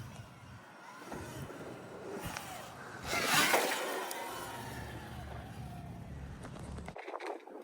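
Sur-Ron electric dirt bike riding past, its motor whine and the rush of tyres and wind swelling to their loudest about three seconds in, then fading slowly.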